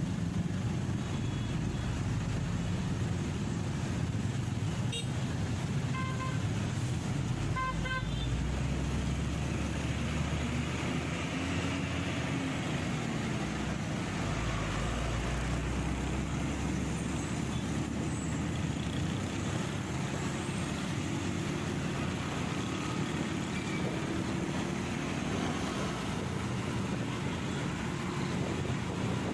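Traffic noise and wind on the microphone from a motorcycle moving through city traffic, a steady rush with low engine and tyre noise. Short horn beeps sound about six and eight seconds in.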